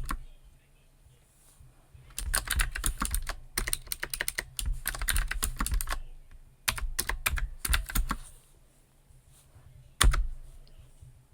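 Computer keyboard typing in runs of quick keystrokes broken by short pauses, ending with one louder single click.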